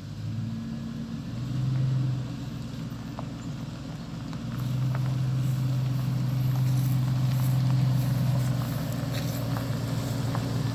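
A motor vehicle's engine running, its low drone changing pitch with engine speed: up briefly about a second and a half in, then held steady for several seconds from about halfway.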